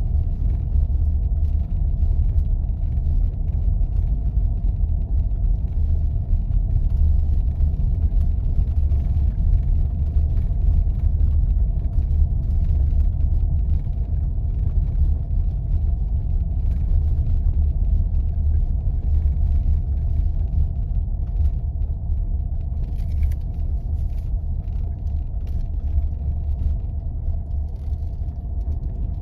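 A 4x4 driving on snow-covered roads: a steady low rumble of engine and tyres, with faint scattered light ticks on top.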